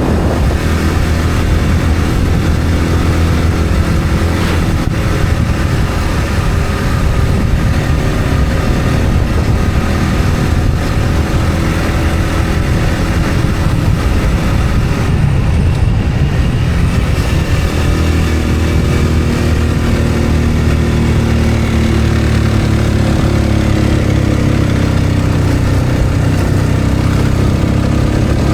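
A vehicle engine running steadily on the move, its pitch slowly rising and falling.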